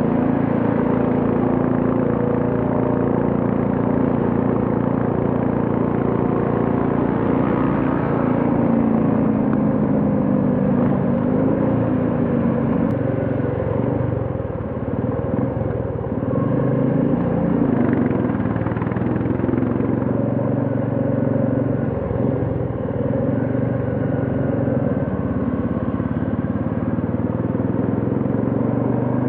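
Royal Enfield Classic 350's single-cylinder engine running while the motorcycle is ridden, its engine speed rising and falling a little a few times, with road noise underneath.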